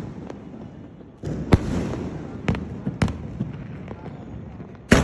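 A 2½-inch multi-shot aerial fireworks cake firing: four sharp reports roughly a second apart, with crackling and rumble between them.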